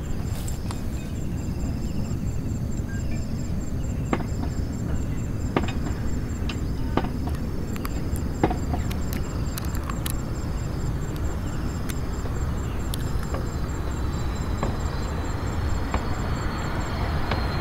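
Airbus A330-302 on approach, its General Electric CF6-80E1 turbofans giving a steady low rumble. A thin engine whine rises in over the last few seconds as the jet draws closer. High, regular chirping and scattered small clicks sound over the rumble.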